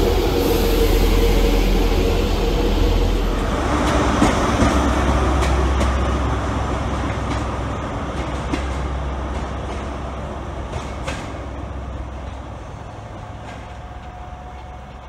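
A GWR Class 800-series train running past a platform. About three and a half seconds in, the sound cuts to a GWR HST's Class 43 diesel power car running at a station, with a steady low engine hum and a few sharp clicks. The sound fades out towards the end.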